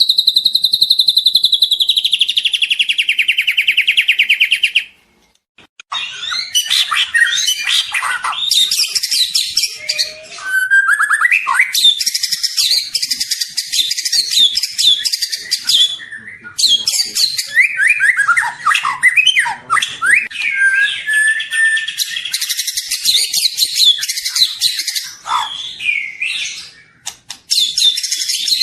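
Juvenile white-rumped shama (murai batu) singing. First comes a rapid buzzy trill that falls in pitch for about five seconds. After a brief pause comes a long run of fast, varied chattering notes and whistled phrases.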